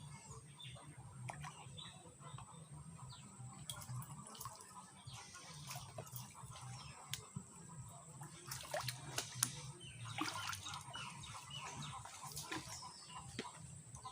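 Water splashing and dripping in small, irregular bursts, busiest a little past the middle.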